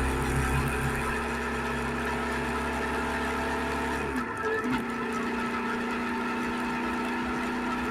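Suzuki SV650X V-twin engine running at a steady note, with a brief change in the sound about four seconds in as the deepest rumble drops away.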